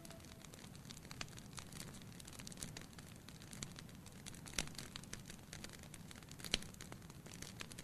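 Wood fire burning in a fireplace, crackling softly with scattered sharp pops, two louder pops a couple of seconds apart near the middle.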